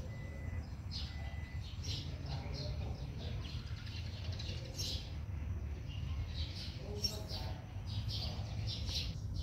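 Small birds chirping in short, high, repeated notes over a steady low rumble, with faint distant voices.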